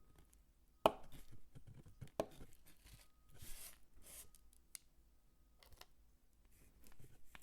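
A bar of soap being chopped with a knife: two sharp chops, one about a second in and another a second later, then short crumbly rustles of the cut pieces and a few small clicks.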